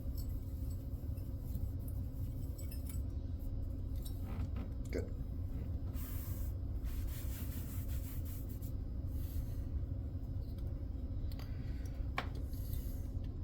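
A cloth rag rubbing on a hard surface, wiping off old thermal paste in faint scrubbing strokes, over a steady low hum that is the loudest sound.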